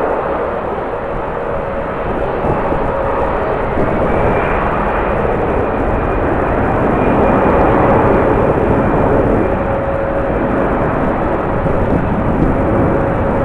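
Jet airliner engines running with a steady whine, mixed with the rush of strong wind.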